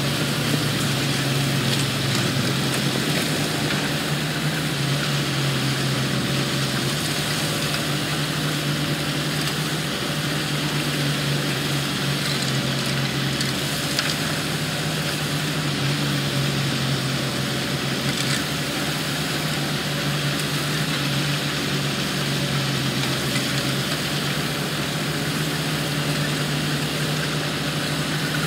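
Heavy construction machinery's diesel engine running steadily at a constant, even pitch, with no revving.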